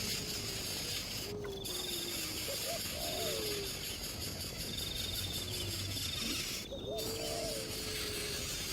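Wild birds calling: low whistled hoots that glide down in pitch, repeated several times, with short high trills, over a steady insect buzz.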